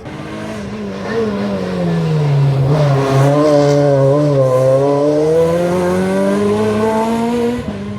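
Rally car's engine passing close by. The revs drop steadily as it slows, it is loudest about three to five seconds in, and the revs climb again as it accelerates away.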